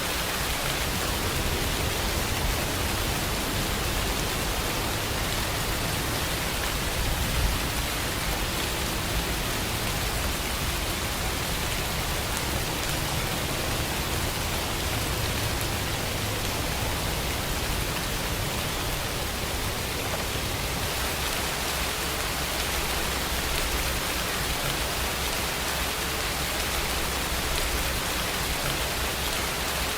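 Steady rain falling, an even, unbroken hiss with a low rumble underneath, and one brief louder tap about seven seconds in.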